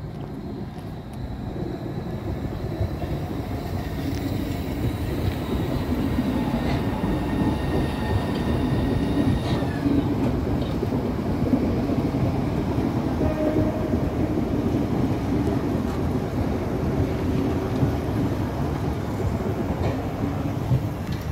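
Train running past on the track, the rumble of its wheels on the rails building over the first few seconds and then holding steady, with a thin high whine from about four seconds in until nearly ten seconds in.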